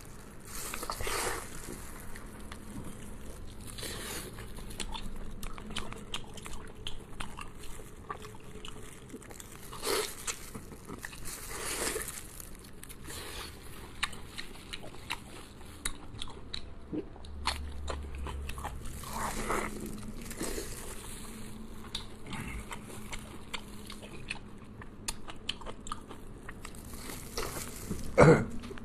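A person eating close to the microphone: bites, crunching and chewing, with louder crunchy bites every few seconds.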